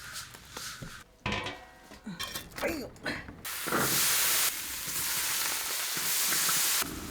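A few short knocks and clicks with brief squeaky gliding sounds, then, about three and a half seconds in, food sizzling in hot oil with a loud steady hiss that changes level once and cuts off suddenly near the end.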